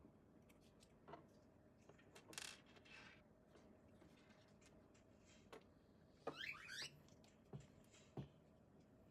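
Near silence: faint scattered clicks and taps, a soft swish about two and a half seconds in, and a brief cluster of short, squeaky chirps a little past the middle.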